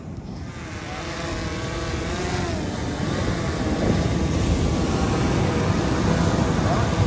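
A motor running with a wavering pitch, growing steadily louder as it comes closer, over a steady low rumble of wind and surf.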